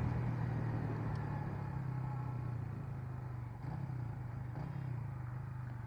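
Motorcycle engine running steadily at low revs, a low hum that rises slightly in pitch twice past the middle.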